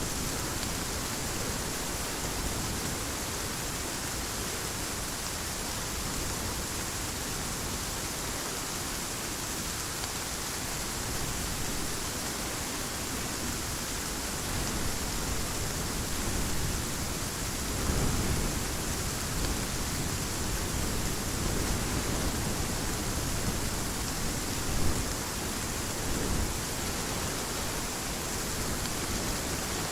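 Heavy rain falling as a steady hiss, with a soft low rumble of distant thunder swelling about two-thirds of the way through.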